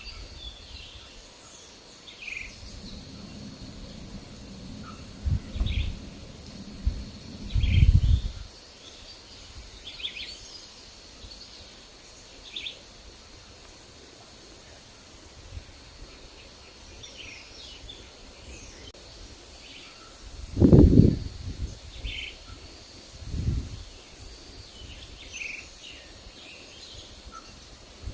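Small forest birds chirping in short, scattered calls, over a faint steady high insect-like hum. Gusts of wind rumble on the microphone several times, loudest about eight seconds in and again about twenty-one seconds in.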